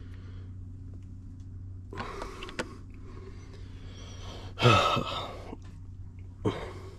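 A man clears his throat loudly about two-thirds of the way in, with a shorter throat sound near the end, over a steady low hum and a few faint clicks.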